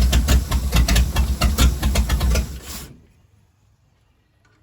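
Chevrolet small-block 400 V8 with a newly fitted Holley carburetor and new exhaust running loudly and roughly, then shut off suddenly about three seconds in.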